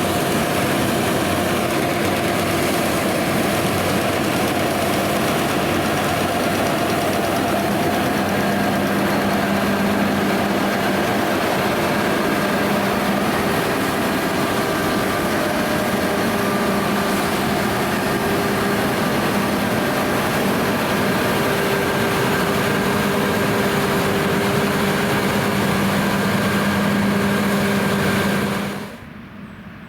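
John Deere X9 1100 combine harvester running steadily under load while combining oilseed rape: a dense mechanical drone with a few steady whining tones. The sound drops away abruptly about a second before the end.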